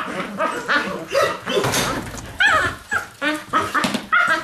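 Several Belgian Malinois puppies yipping, whining and giving high little barks over one another as they play-bite, with short yelps that slide down in pitch.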